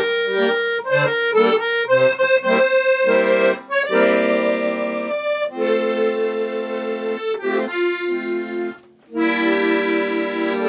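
Accordion playing a folk tune: quick runs of notes over chords at first, then longer held chords, with a short break about nine seconds in.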